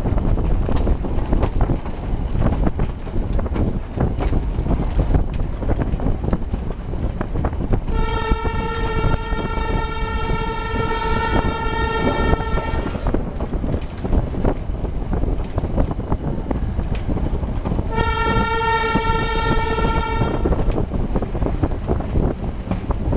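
Narrow-gauge train running, the carriage rumbling and rattling steadily. The horn sounds twice on one steady pitch: a long blast of about five seconds a third of the way in, and a shorter one of about two and a half seconds three-quarters of the way in.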